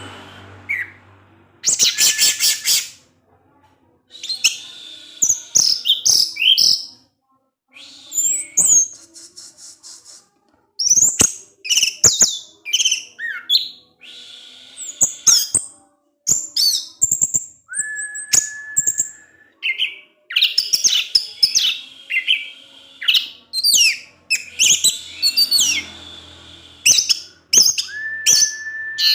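Orange-headed thrush (anis merah) singing continuously: a fast, varied string of high chirps, squeaky 'cip-cis' notes and rattling trills, with a few long level whistles, one near the middle and one at the end.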